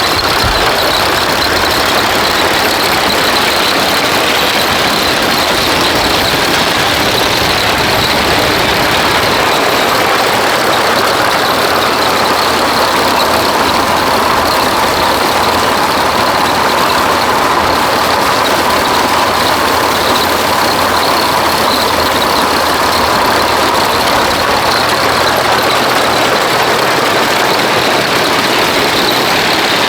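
Belt-driven antique peanut thresher running, separating peanuts from the vines, together with the engine that drives it: a loud, steady mechanical din.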